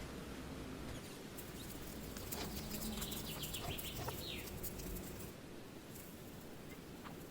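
A bird calling: a quick run of high chirps a few seconds in, ending in a short falling note, over faint outdoor background noise with scattered small clicks.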